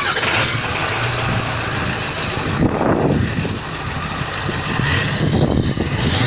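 A motor vehicle's engine running close by: a steady low drone under a broad rush of engine and exhaust noise.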